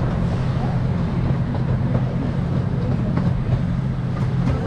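Hermann Park Railroad miniature park train running along its narrow track, a steady low hum and rumble of the train and its wheels on the rails, with faint clicks now and then.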